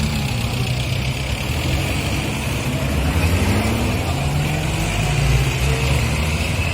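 Tractor engines running steadily at low speed, with one engine's pitch rising about two seconds in.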